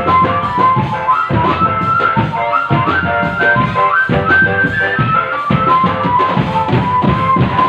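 Drum band playing: a fast, high melody line of quick, held notes over steady, dense drumming.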